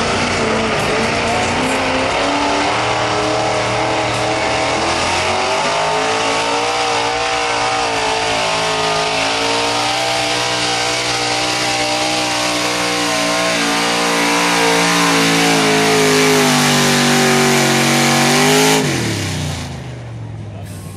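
Pulling truck's engine held at high revs under load, getting louder in its last few seconds. Near the end the throttle is released and the revs fall away sharply.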